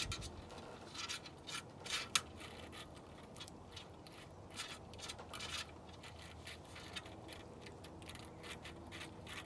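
A comb drawn again and again through a bichon frise's curly coat, small section by section. It makes quick, irregular scratchy strokes, a little louder near the start.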